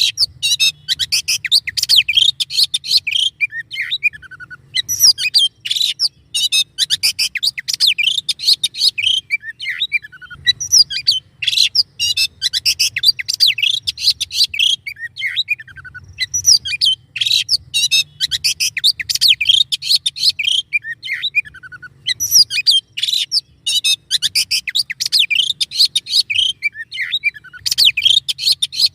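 Recorded songbird song for training cage birds: fast, dense, harsh chattering phrases of rapid high notes, each phrase lasting about five seconds with short pauses between them.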